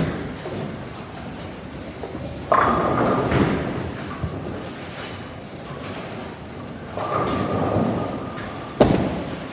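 Bowling alley noise: a sharp thud at the start, then sudden rumbling crashes of balls and pins about two and a half seconds in and again near the end, closing with another sharp thud.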